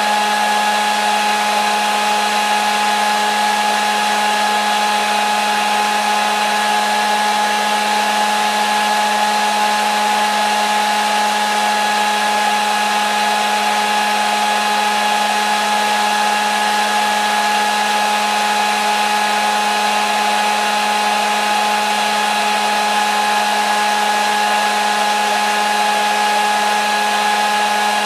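Hair dryer running steadily on one setting, a constant whir of motor hum and rushing air with a high whine, unchanging as white noise for a baby's sleep.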